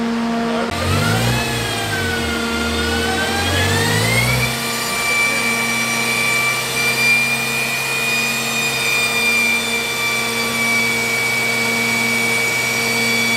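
A BMW M5's twin-turbo V8 running on a chassis dyno. Its speed rises, eases briefly, rises again, then holds steady with a high whine from about four seconds in. A steady hum from the shop's cooling fans runs underneath.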